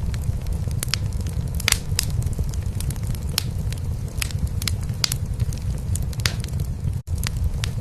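A cat purring steadily under a crackling wood fire in a fireplace, with irregular sharp pops and snaps over the low purr. The sound drops out for a split second near the end.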